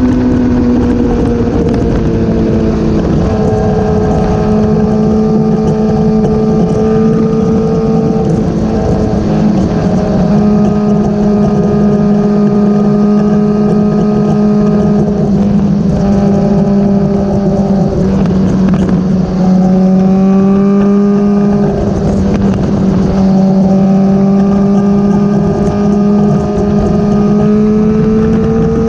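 Motorcycle engine running at a steady cruise, its note holding nearly level with a slight dip in pitch partway through and a small rise near the end, with wind rushing over the microphone.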